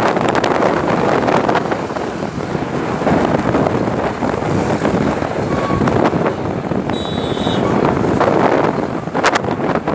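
Wind buffeting the microphone of a moving bike: a loud, rough, fluctuating rush. A brief high-pitched tone sounds about seven seconds in.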